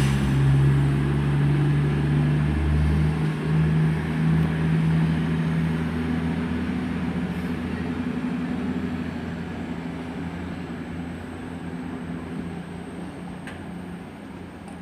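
Class 220 Voyager diesel multiple unit pulling out of the station under power. Its underfloor diesel engines give a steady low note that climbs in pitch over the first few seconds as it accelerates, then fades steadily as the train draws away.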